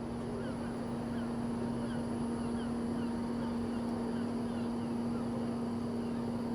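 A steady low hum with a short, faint falling chirp repeating every half second or so above it.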